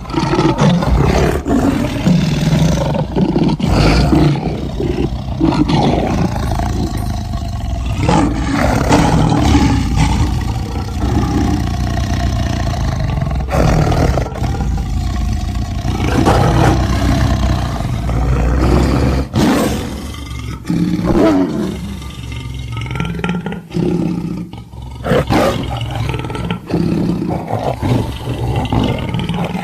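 Sound-designed sabre-toothed lion creature, made from lion and tiger recordings: a run of loud roars, one after another with short breaks between them.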